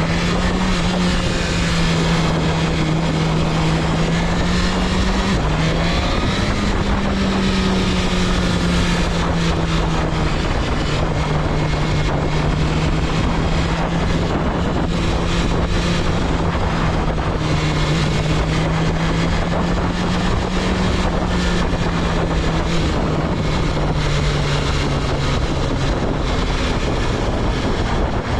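BMW S1000RR's 999 cc inline-four engine running at a steady cruise, its note dipping briefly about five seconds in and then picking back up, under heavy wind rush.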